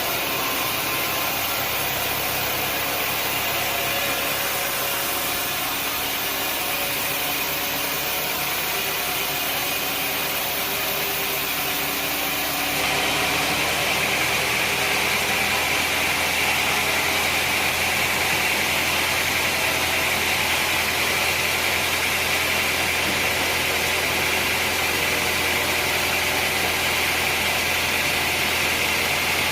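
Sawmill machinery running steadily. About halfway through it gets slightly louder, with a stronger high hiss, and stays that way.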